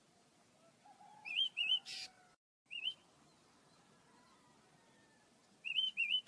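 Pet birds chirping: short rising chirps, mostly in quick pairs, each pair followed by a brief harsh, hissy note.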